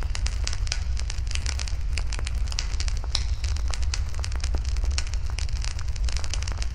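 Wood fire burning, crackling and popping irregularly and densely, over a steady low rumble.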